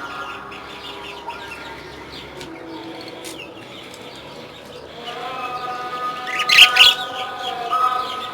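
Budgerigars chirping and chattering, with a loud burst of chirps about six and a half seconds in.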